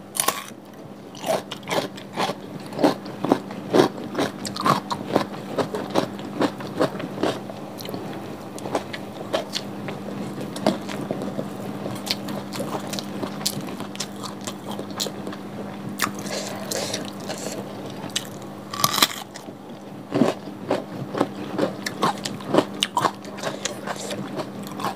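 Close-miked mouth sounds of eating: a bite into raw cucumber at the start, then many short crunches and wet chewing of fried tiwul (cassava rice).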